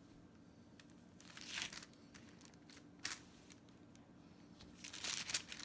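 Crinkling and rustling of wrapping being handled as a stuffed turkey breast is wrapped and tied, in three short bursts: one about a second and a half in, a quick one at about three seconds, and a longer spell near the end.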